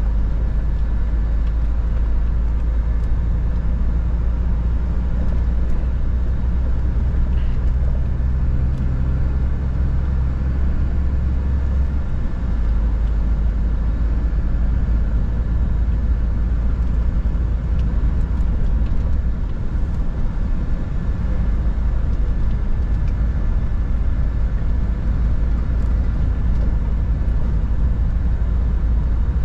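Scania R 450 truck's 13-litre straight-six diesel running under way, a steady low drone with road noise. The low engine note shifts about twelve seconds in.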